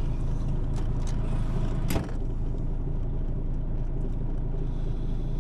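Truck engine idling steadily, with one sharp knock about two seconds in.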